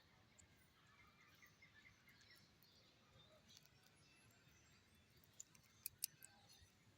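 Near silence, with faint short high chirps scattered throughout and a few sharp clicks a little after five seconds in.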